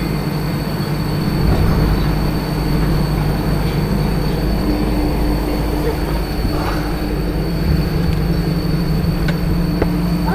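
Steady running hum of a moving rail vehicle, with a constant low drone and a faint high whine.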